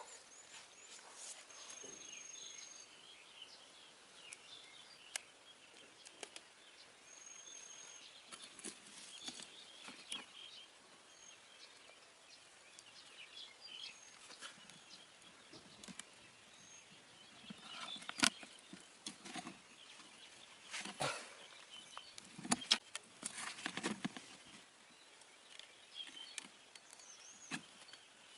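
Quiet outdoor ambience with faint, short, high bird chirps and whistles now and then. About two-thirds of the way through comes a spell of rustling with sharp clicks and knocks, the loudest part.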